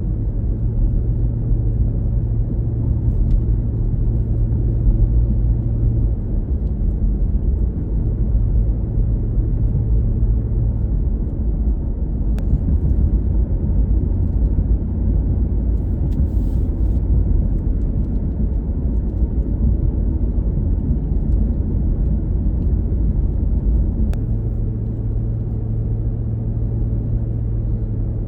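A car driving along a road: a steady low rumble of road and engine noise, with a low hum that drops away for a while in the middle and returns near the end.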